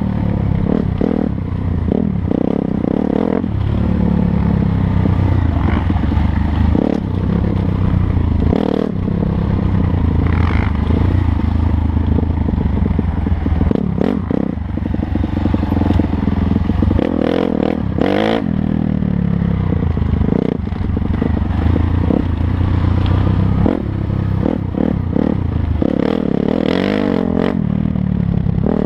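Dirt bike engine revving up and falling back again and again while riding, with scattered sharp knocks and rattles.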